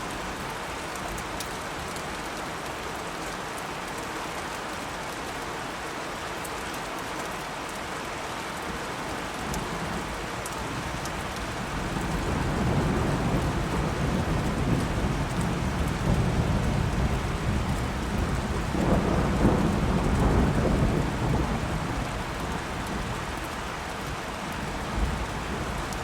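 Steady rain with a long roll of thunder that builds about halfway through, rumbles loudest a few seconds later and then fades away.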